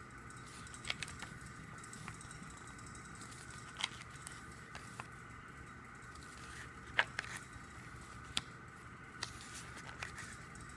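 Soft scattered clicks and rustles of a K-pop album's photobook pages being handled and turned, the sharpest click about seven seconds in, over a steady faint hum.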